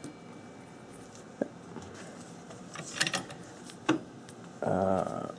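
Scattered small metallic clicks and clinks as a nut is handled and run onto a freshly cut 3/8 thread on an aluminium rod. Near the end comes a short low buzzy hum, the loudest sound, lasting under a second.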